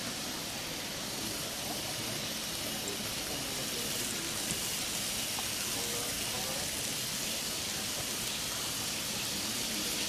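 Chicken satay sizzling over a charcoal grill: a steady hiss.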